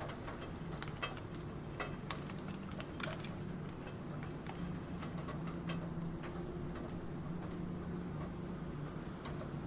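Computer keyboard keys clicking in slow, scattered keystrokes, roughly one a second and unevenly spaced, over a steady low background noise.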